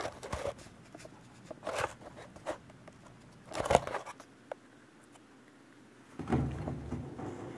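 Scattered clicks and rustles of things being handled, the loudest a sharp knock a little under four seconds in, followed near the end by a low rustling for about a second.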